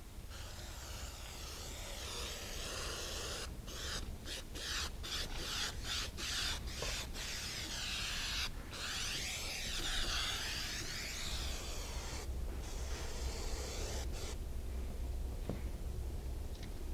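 Aerosol can of 3M spray adhesive hissing as it is sprayed along the edge of a door panel backer board. It goes in a run of short bursts, about two a second, from about three to seven seconds in, then in longer steady passes, and thins out near the end.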